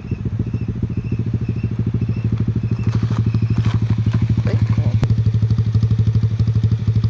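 Small 125cc motorcycle engine idling steadily close by, an even, fast chug that grows slightly louder over the first few seconds. A few light clicks and knocks sound in the middle, with a sharp click about five seconds in.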